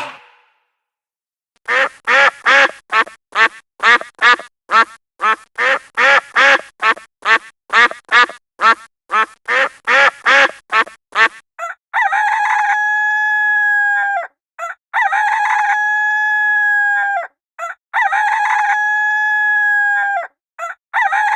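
Domestic fowl calling. First comes a fast run of short calls, about two and a half a second, for roughly ten seconds. Then, about halfway through, come four long crows of about two seconds each.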